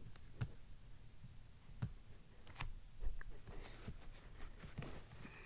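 A few faint clicks and light knocks, then soft rustling near the end, from a camera being handled and set up.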